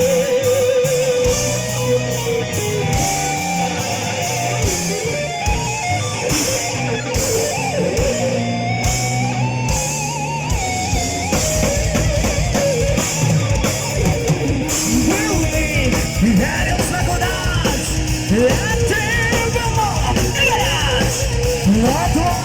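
Live heavy metal band playing an instrumental passage: an electric guitar lead with bends and vibrato over drums and bass guitar.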